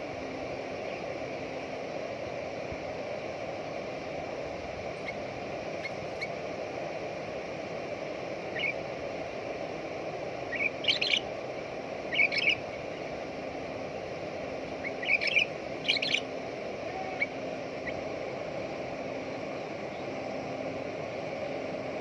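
Sooty-headed bulbul giving short, sharp chirping calls, first faint, then several louder clusters in the middle of the stretch, over a steady background noise.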